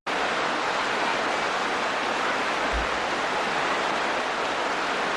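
Steady rush of fast-flowing floodwater in a swollen river, with one brief low bump nearly three seconds in.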